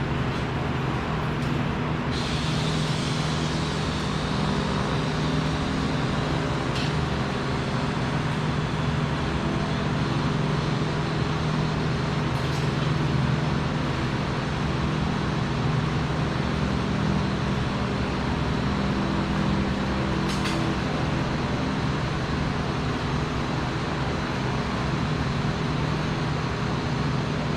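Steady low machinery hum with a few faint clicks.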